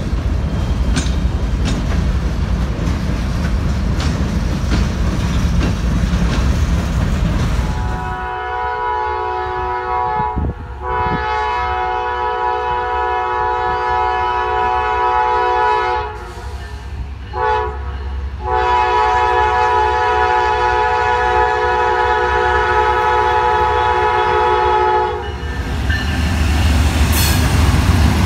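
Freight cars rumbling and clattering over a grade crossing. Then a diesel locomotive's multi-note air horn sounds the grade-crossing signal: long, long, short, long. Near the end an Amtrak diesel locomotive passes close by with a low rumble.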